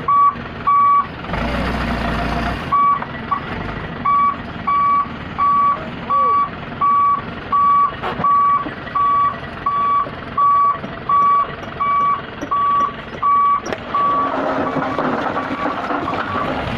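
A dump truck's reversing alarm beeping, a steady single-tone beep about one and a half times a second over the truck's running engine. The beeping stops about fourteen seconds in and a rougher, noisier sound takes over.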